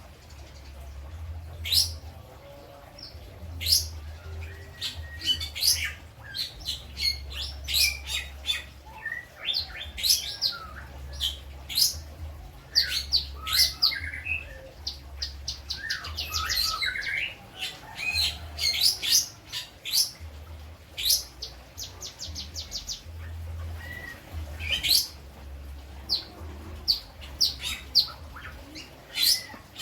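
Lovebird singing: sharp, high chirps and quick trills in close runs, a song loaded with learned imitations of kapas tembak and ciblek calls. A low hum comes and goes underneath.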